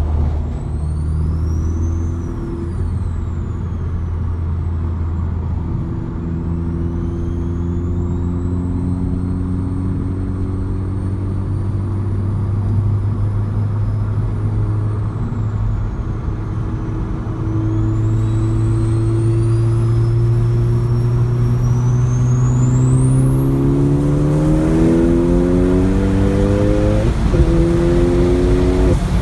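2013 Ford Focus ST's turbocharged 2.0-litre four-cylinder heard from inside the cabin on the highway: it cruises steadily, then accelerates hard from about two-thirds of the way in, revs climbing with a high whine rising alongside. A quick break in the sound near the end marks a gear change as the LED shift light comes on.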